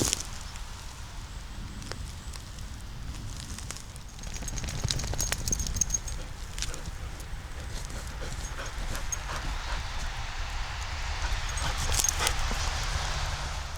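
Footsteps through leaf litter and fallen twigs on a forest floor, with rustling and irregular sharp snaps.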